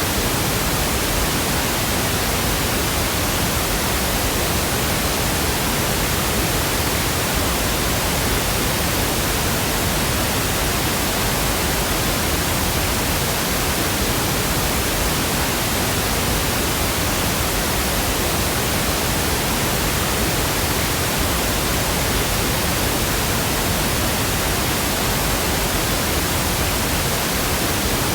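Steady pink noise: an even, unchanging hiss spread across all pitches, with no breaks or other sounds.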